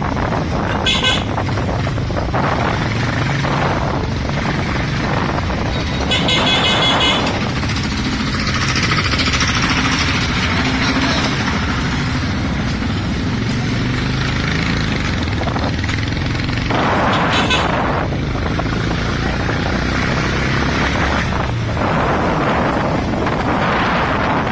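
Motorcycle engine running steadily while riding through streets, with horns tooting briefly three times: about a second in, around six seconds in, and again near the two-thirds mark.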